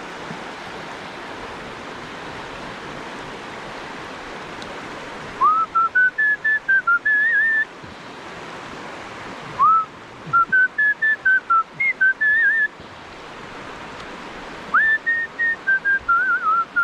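A man whistling a tune in three phrases, each opening with an upward swoop and going on in a run of short notes, over the steady rush of the river.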